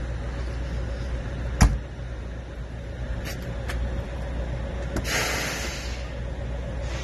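Steady low rumble of a heavy truck's diesel engine idling, with a sharp loud knock about one and a half seconds in, a few light clicks, and a short hiss about five seconds in.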